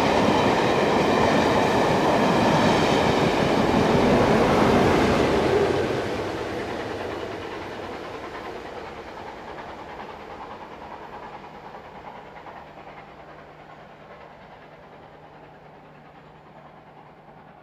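Passenger train coaches rolling past with wheel clatter, then a trailing Class 47 diesel locomotive going by. About six seconds in the sound begins to fade steadily as the train draws away, leaving a faint low hum.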